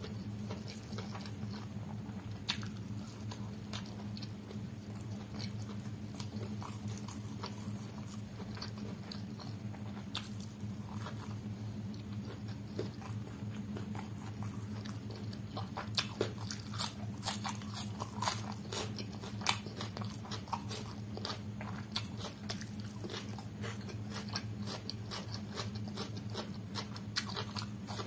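Close-miked eating: chewing mouthfuls of rice and chicken curry eaten by hand, with many small wet mouth clicks that come thicker in the second half. A steady low hum runs underneath.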